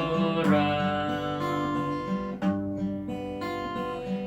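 Acoustic guitar fingerpicked in the basic waltz arpeggio, a bass note then plucked chord tones in three-beat time, ringing on. At the start a man sings the last word of the line, "없어라."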